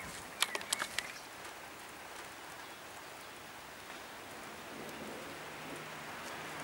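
Steady hiss of rain falling during a thunderstorm, with a few sharp ticks in the first second.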